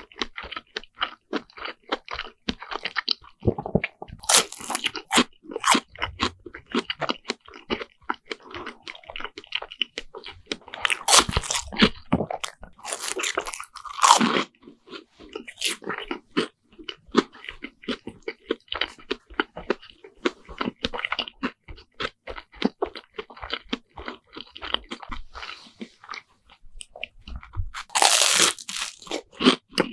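Person chewing deep-fried Lunch Pack bread sandwiches, with crisp crunching and many small mouth clicks. Several louder crunchy bites into the fried crust come about four seconds in, around eleven to fourteen seconds, and near the end.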